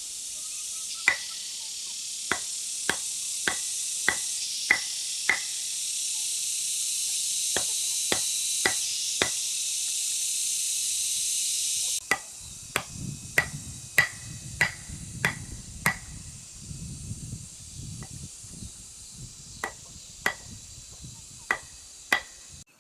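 Repeated hammer strikes, roughly one to two a second, each with a short metallic ring. A steady high hiss behind them cuts off suddenly about halfway through.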